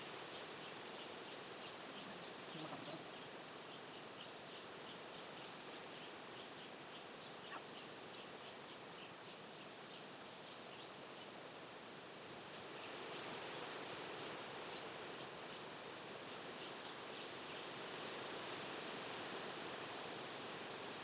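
Steady outdoor background noise with faint, frequent bird chirps; the background grows a little louder about two-thirds of the way through.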